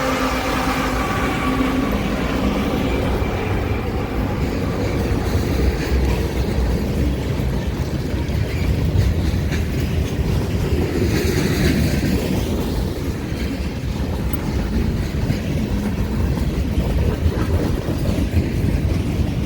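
Union Pacific manifest freight train rolling past downgrade, a steady loud rumble of wheels and cars on the rails. Some held tones fade out in the first few seconds, and a brighter high hiss rises briefly about halfway through.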